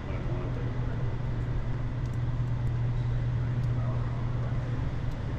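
A steady low drone of a running engine, holding an even pitch with no change in speed.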